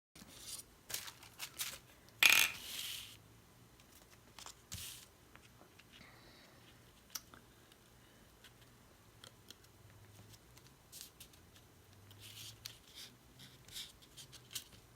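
Paper being handled on a craft desk: scattered light rustles, taps and clicks, with a louder rustle or tear of paper lasting about a second, a little over two seconds in.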